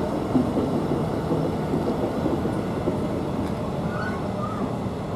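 Class 66 diesel-hauled freight train running through, its wagons rumbling steadily on the track. A few short high squeals come in near the end.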